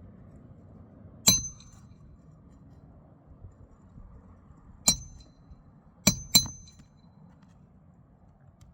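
Four sharp metal-on-metal strikes, each with a brief high ring: the first alone, a second a few seconds later, then two in quick succession near the end. These are roofing hand tools at work on a shingle repair attempt.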